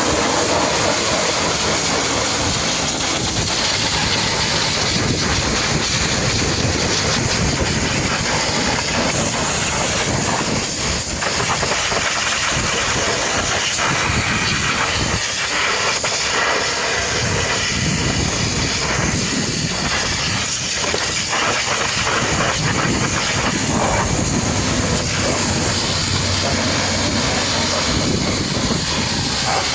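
High-pressure washer jet spraying water onto a truck: a loud, steady hiss of spray.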